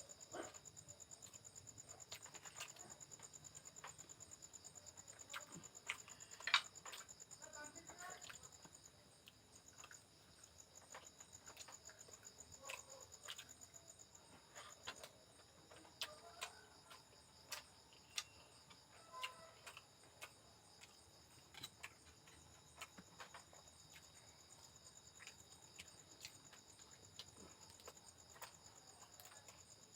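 Faint eating sounds: scattered soft clicks and smacks of chewing, over a steady high-pitched trill that pulses through the first third.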